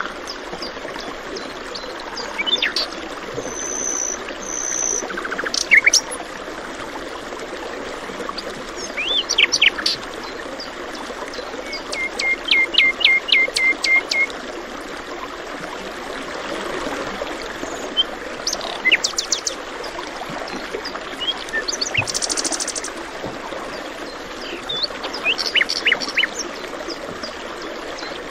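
Several songbirds chirping and calling over a steady background of running water. About twelve seconds in, one bird gives a quick run of a dozen or so short, evenly spaced chirps.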